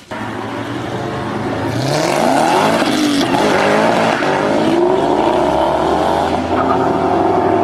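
Car engine revving hard and accelerating, its pitch climbing through several gears over a rush of road and wind noise.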